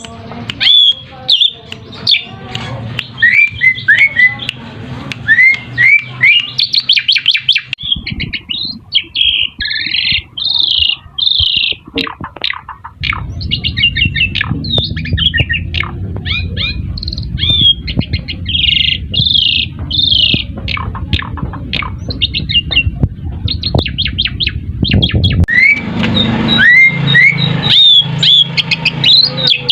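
Pied starling (jalak suren) song: a dense run of upward-sweeping whistles, rapid clicking chatter and squawks. A low steady rumble runs under the calls through the middle stretch.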